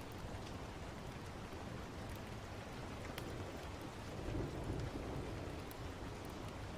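Steady rain with a low roll of thunder that swells about two thirds of the way in and fades. A few faint sharp crackles stand out now and then.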